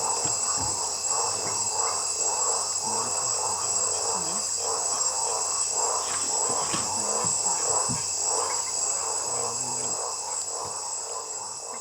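Rainforest insect chorus: a steady, high-pitched buzzing over a lower chorus that pulses rapidly, a few beats a second.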